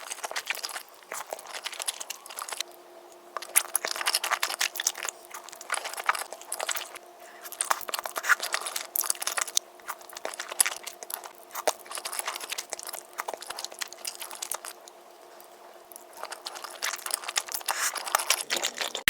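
Close-miked eating sounds: crisp food being bitten, crunched and chewed in quick, irregular crackles, with a couple of short quieter pauses.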